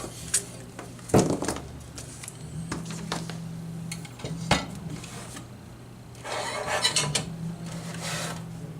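Knocks and clatter of tools and equipment being handled and set down on a workbench, the loudest knock about a second in, with a stretch of rustling and scraping near the end. A steady low hum runs underneath.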